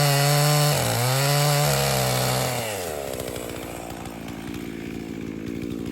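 Husqvarna 55 two-stroke chainsaw running at full throttle. The revs dip and waver for a moment about a second in, then wind down as the throttle is let off and settle to a lumpy idle from about halfway.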